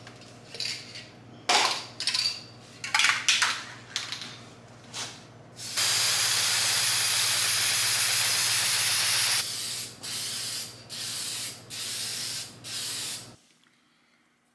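Aerosol spray paint can spraying: several short spritzes, then a long steady spray of about three and a half seconds, then four short bursts about a second apart.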